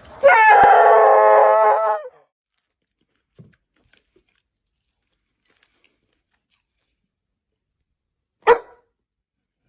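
A dog's long howling "talk" of about two seconds, its pitch wavering, given in answer to being asked to say "Happy Thanksgiving". A single short sharp sound comes about eight and a half seconds in.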